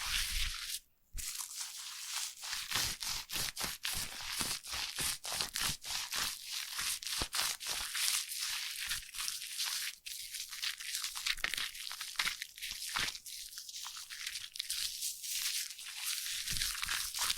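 Foam being squished and worked close to the microphone: a dense run of crisp crackles and pops over a fine hiss, with a brief break about a second in.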